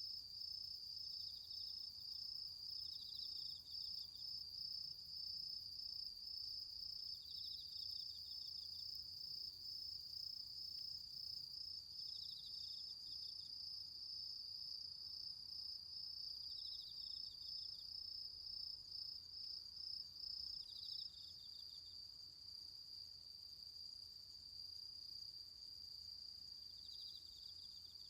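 Autumn insects calling: one steady high trill, with short pulsed chirps from another insect repeating every four or five seconds. About three-quarters of the way through, the pulsing over the trill stops and it goes on smoother and slightly quieter.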